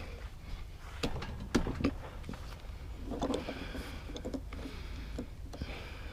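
Scattered metallic clicks and knocks with short stretches of scraping as hand tools work at the valve fittings of an old water heater to unscrew them.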